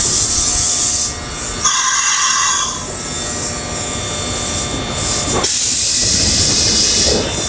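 Kintetsu 3200 series electric train at a station, with several loud bursts of air hissing over a low rumble.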